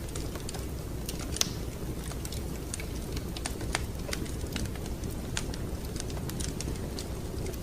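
Wood fire crackling in a fireplace: irregular sharp pops and snaps over a steady low rumble of the burning fire, with a louder pop about a second and a half in.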